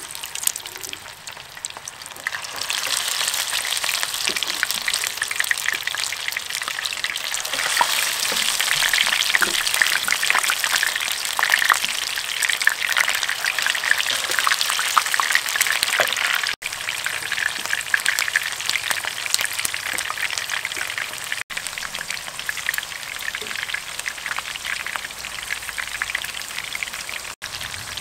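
Oil sizzling and crackling in a frying pan around pork-and-egg-stuffed bell pepper rings as they shallow-fry. The sizzle grows louder about two and a half seconds in and then holds steady, broken by three momentary gaps.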